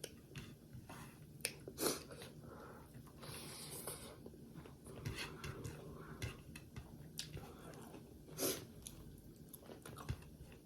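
Close-up mukbang eating sounds: a person chewing and biting a meal of rice with greens, egg and pickle. Wet mouth clicks and soft crunches run throughout, with a few sharper clicks, the loudest about 2 s and 8.5 s in.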